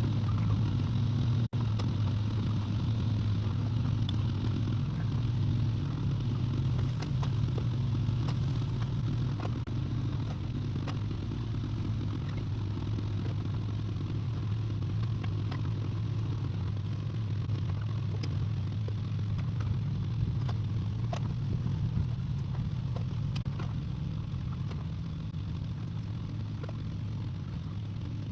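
Excavator engine running steadily, with scattered light clanks and scrapes of the machine at work; the sound drops out for an instant about one and a half seconds in.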